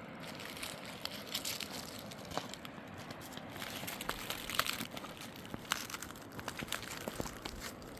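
Irregular light crunching and crackling: a scatter of small clicks and rustles from dry material being crushed.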